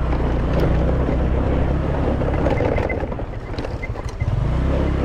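Motor scooter engine running under way, with a steady low note; it eases off briefly about four seconds in, then picks up again.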